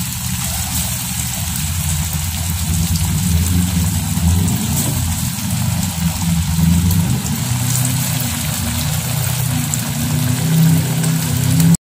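Cassava dough cakes sizzling as they deep-fry in hot oil in a wok, over a steady low motor-like hum that is the loudest part of the sound.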